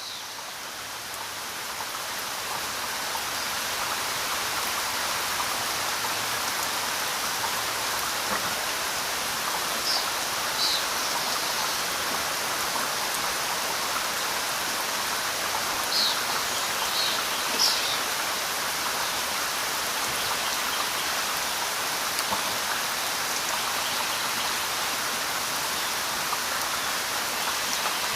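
River water flowing and rushing as a steady hiss, fading in over the first few seconds. A few brief high-pitched sounds stand out near the middle.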